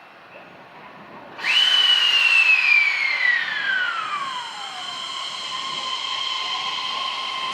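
E131 series electric train's hybrid SiC IGBT VVVF inverter whining. About a second and a half in it starts suddenly, sliding down in pitch over about three seconds, then holds a steady tone.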